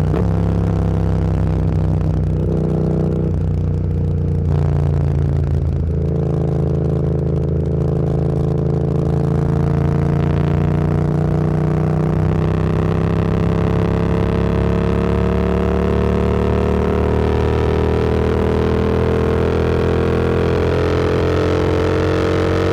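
Motorcycle engine under way, with a few quick gear changes in the first six seconds, then a long, steady climb in revs that drops abruptly at the end.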